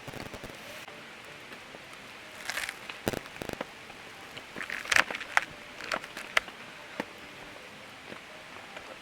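Steady rain pattering, with a scatter of sharp clicks and knocks from about two and a half to seven seconds in.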